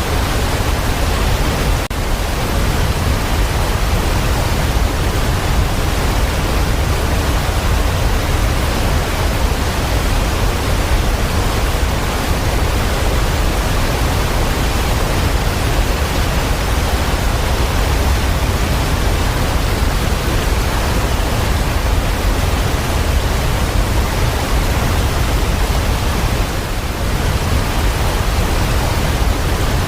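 Steady, even hiss of falling water with no distinct drops or breaks, as from heavy rain.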